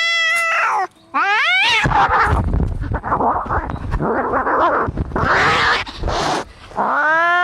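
Cats fighting: a long drawn-out yowl trails off, a rising wail leads into several seconds of harsh, noisy screeching and scuffling, and another long yowl starts near the end.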